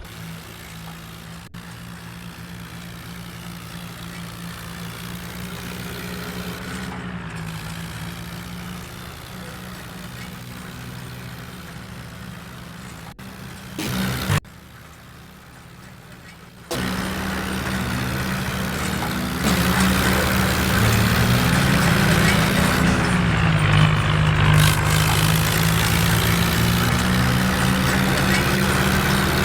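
Tractor engine running with a steady low drone, its pitch dipping and coming back up twice. The sound jumps abruptly in loudness several times, with a brief louder burst about halfway through.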